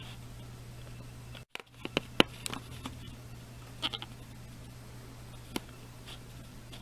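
1997 Craftmade CXL ceiling fan running with a steady low motor hum, broken by a few sharp clicks and brief high chirps. The sound drops out for a moment about a second and a half in.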